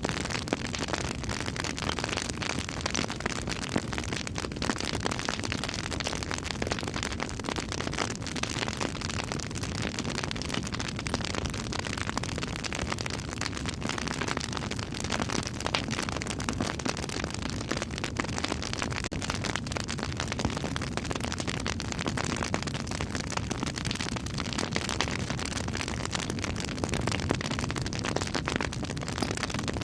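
A campfire burning: a steady rush of flames, dense with small crackles and pops of burning wood.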